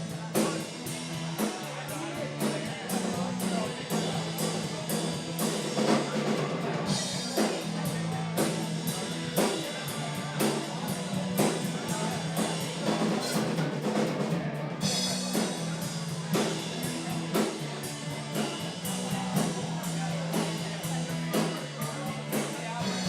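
Rock band playing an instrumental passage on drum kit, bass and guitar, with drum hits on a steady beat under held bass notes. Cymbals come in for a few seconds at about seven seconds, and again from about fifteen seconds to the end.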